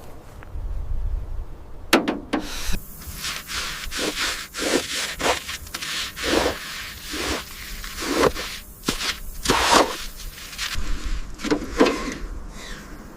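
Repeated hand rubbing and scraping strokes against a surface, roughly one or two a second in an uneven rhythm, with a few sharper knocks among them.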